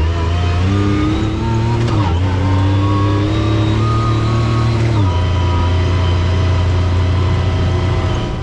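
Side-by-side UTV engine running under load: its pitch climbs steadily for about four seconds, then drops abruptly about five seconds in and holds steady.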